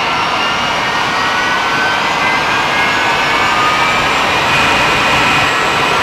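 Jet engine of a jet-powered truck running on the ground during its startup checks: a steady loud roar with a turbine whine that slowly rises in pitch as the revs climb.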